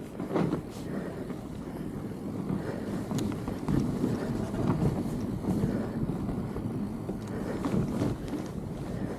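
Wind buffeting a helmet or handlebar microphone on a fat bike riding a snowy trail, a rough, uneven rushing with a few short knocks from the bike.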